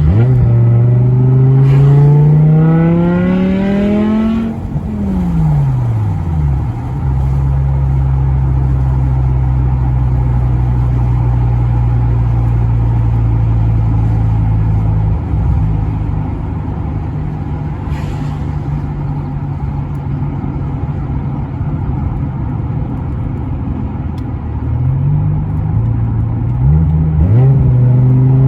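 BMW M6 E64's 5.0-litre V10 engine revved up, its pitch climbing for about four seconds and falling back to a steady idle. It idles evenly for most of the time, then revs up again near the end.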